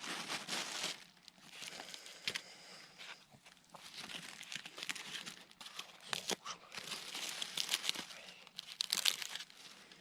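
Campfire crackling, with dense irregular snaps and pops.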